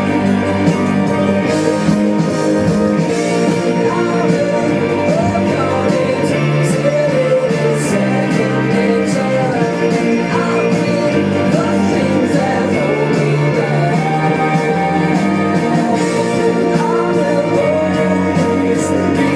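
Recorded pop-rock song playing loud and steady: a man singing a melody over guitar and band backing.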